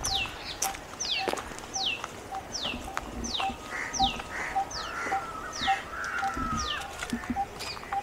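Birds calling in a wooded park: one repeats a high, steeply falling whistle about one and a half times a second, while another keeps up a short, lower, steady note at a similar pace. Faint footsteps on a dirt path.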